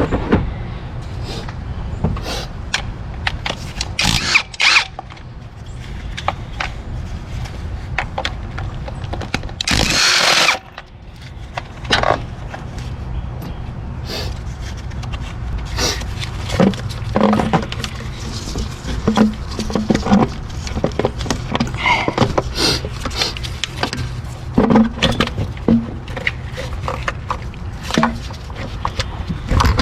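Tool work on a car engine under repair: scattered metal clicks, clinks and knocks of wrenches and parts being handled, over a steady low hum. About ten seconds in there is one short, loud burst of noise.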